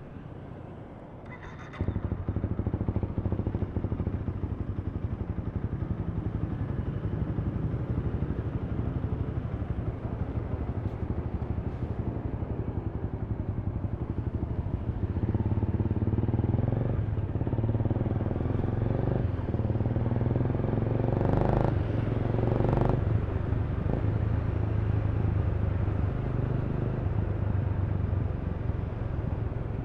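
Honda Rebel 300 motorcycle's single-cylinder engine running, heard from the rider's seat. It comes in sharply louder about two seconds in, then runs on with its revs climbing and falling through the second half.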